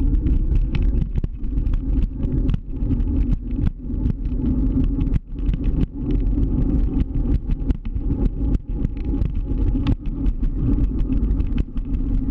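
Scooter rolling over city pavement: a steady low rumble with many sharp knocks and rattles as it goes over bumps.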